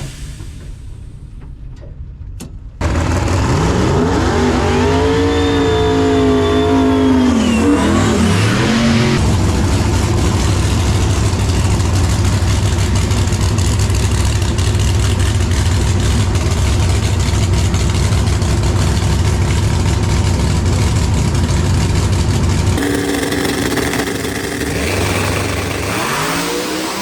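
Drag racing engine coming in suddenly about three seconds in and revving up with rising pitch, then running loud and steady at high power for over ten seconds before easing back somewhat, with another rise in pitch near the end.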